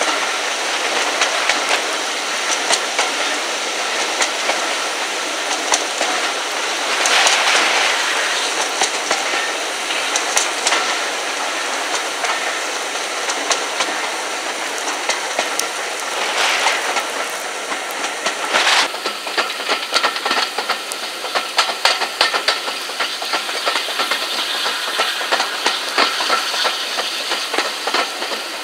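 A steam-hauled train heard from an open carriage window behind Flying Scotsman: a steady rush of wind and running noise with the wheels clicking over the rail joints. Louder swells come about a quarter and about two-thirds of the way through, and the clicks come quicker and closer together in the second half.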